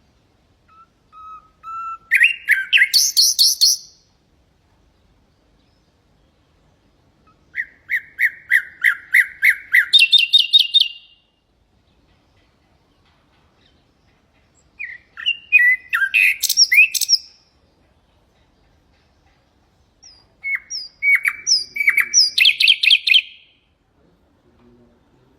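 Common nightingale singing four separate phrases, each a run of fast repeated notes that jumps higher part-way through, with pauses of a few seconds between phrases.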